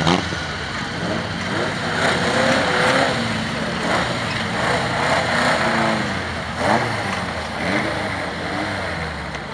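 Several old saloon cars' engines revving hard on a loose gravel track, the pitch rising and falling as the cars accelerate out of a bend and shift gear. It gets louder about two seconds in and again near seven seconds as the cars pass close.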